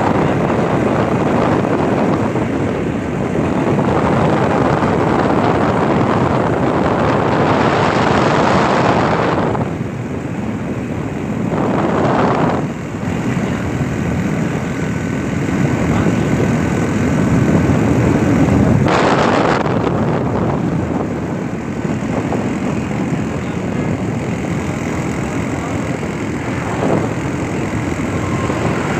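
Steady noise of a vehicle moving along a road: engine and road rumble, with some rise and fall in the noise along the way.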